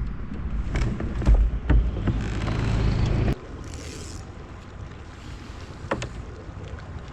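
Wind buffeting the microphone on open water, with several sharp knocks and clicks of handling on the kayak. About three seconds in the sound cuts off suddenly, and quieter wind and water noise follows, with one more click near the end.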